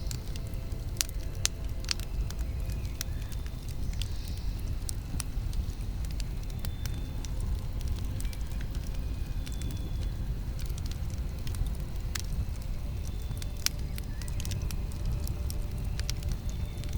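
Campfire burning: wood crackling with frequent sharp snaps and pops at irregular intervals over a steady low rumble of the flames.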